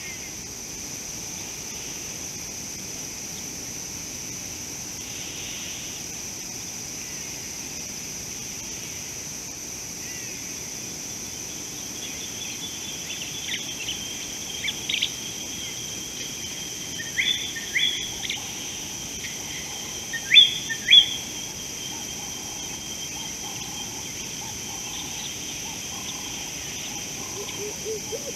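Steady outdoor background hiss with a continuous high-pitched hum, and in the middle a run of short, high bird chirps, the two loudest coming close together about two-thirds of the way in.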